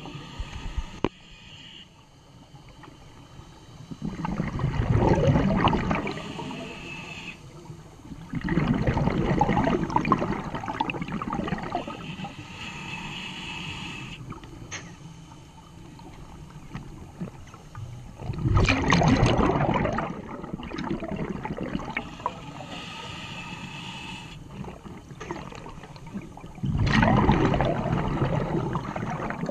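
Scuba diver breathing through a regulator underwater: four loud rushes of exhaled bubbles, several seconds apart, with quieter hissing between them.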